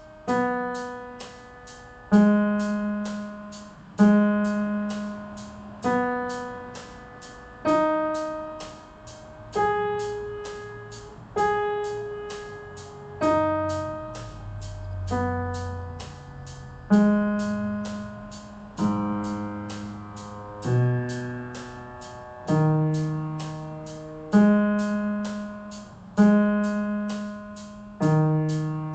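Piano playing a G sharp minor arpeggio slowly, one note about every two seconds with each note left to ring and fade, climbing and descending through several octaves.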